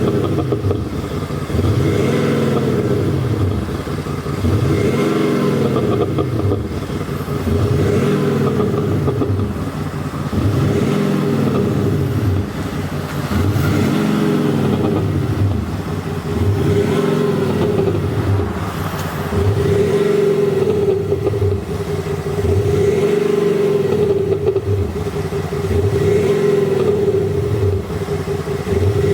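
BMW G05 X5 M50d straight-six diesel with an active exhaust-sound booster, revved up and back down over and over, about one rev every two seconds, over a steady drone.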